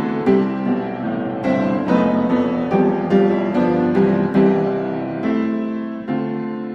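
Background music: gentle piano playing a melody of evenly paced notes, with chords below.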